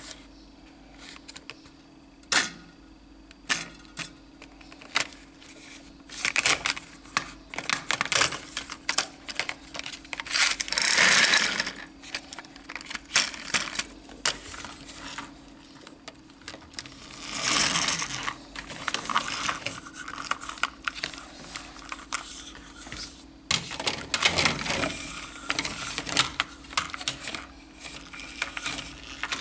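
Plastic toy vehicles being handled: a run of irregular clicks and clacks, with a couple of longer scraping rustles.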